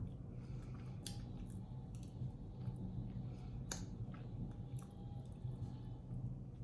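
Quiet mouth sounds of a person eating and drinking: a few soft clicks, the sharpest about a second in and near four seconds in, over a low steady hum.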